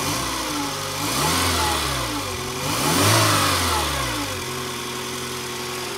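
Fiat Panda 900ie four-cylinder engine idling, revved twice by hand at the throttle, each time rising and falling back to a steady idle. It runs quietly, with practically no noise, after a rebuild with new piston rings and a new timing chain and tensioner.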